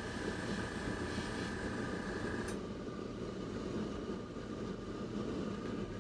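Airbrush spraying ink with a steady hiss over the constant hum of its air compressor; the spray hiss cuts off about two and a half seconds in while the compressor keeps running.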